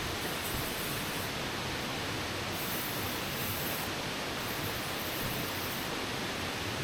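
Steady, even rush of flowing water from a forest stream, with a high insect chorus above it that swells and fades several times.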